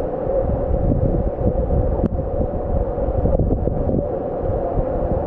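Steady drone and low rumble of a vehicle on the move, with wind buffeting the microphone.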